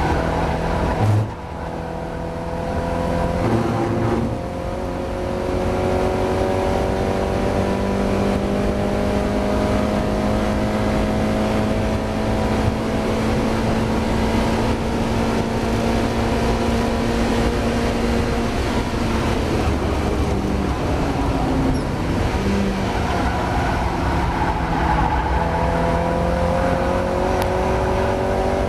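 Mazda MX-5's four-cylinder engine racing under load, heard continuously. There is a brief lift about a second in, then a long held note whose pitch slowly shifts, a drop past the twenty-second mark, and revs rising again near the end. The engine is running with a misfire.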